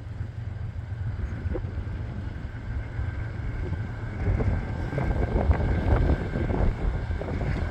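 Wind buffeting the microphone over an approaching freight train, whose running noise grows louder from about four seconds in, with a faint steady whine.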